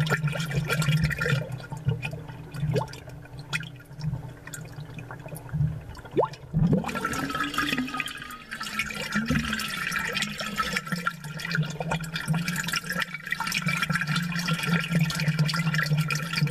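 Aquarium bubbles and water gurgling, heard amplified, over a steady low hum. The bubbling thins out and quietens for a few seconds, then comes back fuller with a couple of sharp gurgles.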